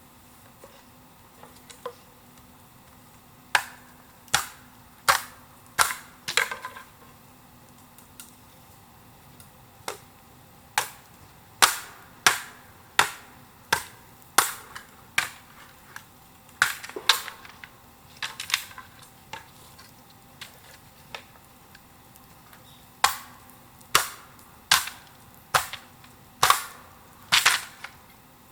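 A series of sharp cracks or knocks, struck in steady runs of about one and a half a second, with short pauses between the runs.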